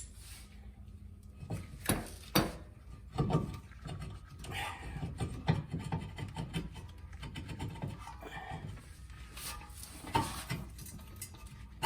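Hand scraping and rubbing on rusty brake hardware, in uneven strokes, with two sharp metal knocks about two seconds in.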